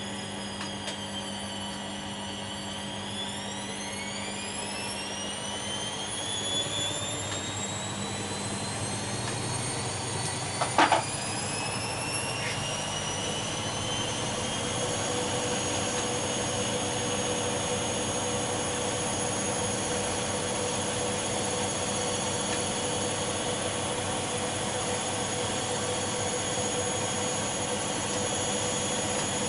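Bosch Maxx WFL 248Y front-loading washing machine speeding up into its spin: the motor's whine dips, then rises in pitch over about fifteen seconds and settles into a steady high whine. There is one sharp knock about eleven seconds in.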